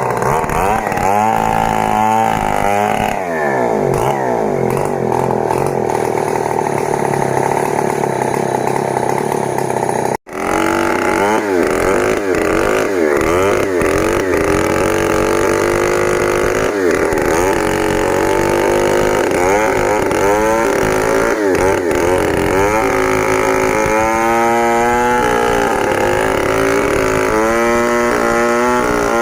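Stihl 070 two-stroke chainsaw running under load, its engine speed rising and falling again and again as it cuts through a log. The sound drops out for an instant about ten seconds in.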